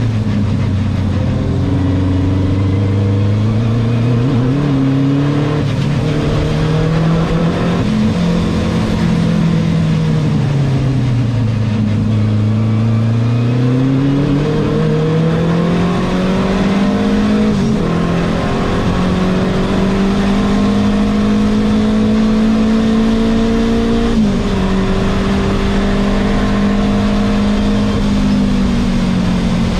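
Renault 5 Turbo 2's mid-mounted turbocharged four-cylinder engine heard from inside the cabin at racing pace, its pitch sinking and climbing over and over as the car slows for corners and accelerates out. The pitch drops sharply twice, about halfway through and again near the end, at gear changes.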